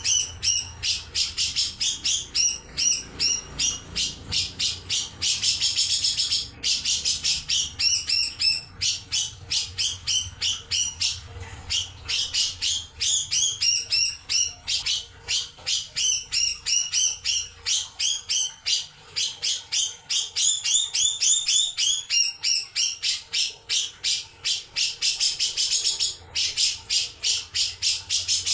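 Cucak jenggot (grey-cheeked bulbul) singing: a rapid, near-continuous run of sharp chirping and chattering notes, several a second, with only brief pauses.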